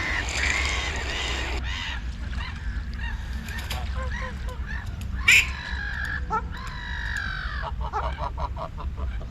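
Geese and ducks calling: a dense mix of honks and quacks, then several longer drawn-out honks and a quick run of short calls near the end, over a steady low rumble.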